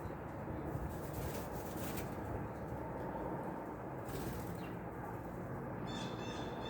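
Small songbird calling near the end, a short rapid series of high notes, over a steady low background rumble.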